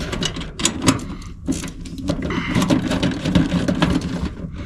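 Irregular clicks, knocks and rattles of metal parts being handled inside an electric furnace cabinet as a breaker is worked aside, over a low steady hum.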